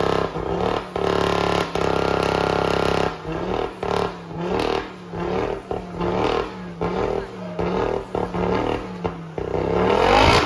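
Car engine held at high revs for about three seconds, then revved in quick repeated blips, rising and dropping about every two-thirds of a second, and a steeper rise in revs near the end.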